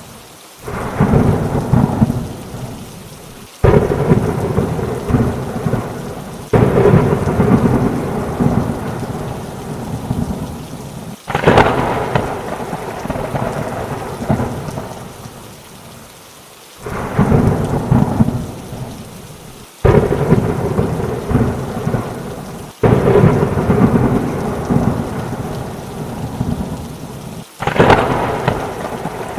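Thunderstorm: sudden thunderclaps every few seconds, about eight in all, each rolling off over a few seconds, over steady rain.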